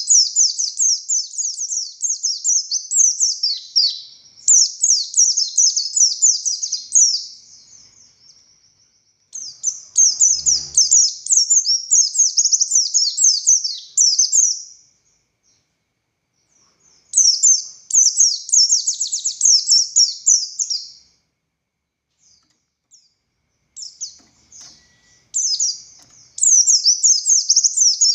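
A pleci buxtoni white-eye singing: fast, high-pitched twittering phrases of several seconds each, broken by short pauses.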